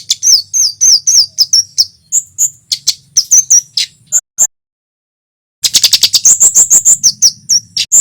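Kemade jawa (cit keres) song: a loud, rapid string of sharp high chips and quick down-slurred notes. It breaks off for about a second and a half past the middle, then starts again.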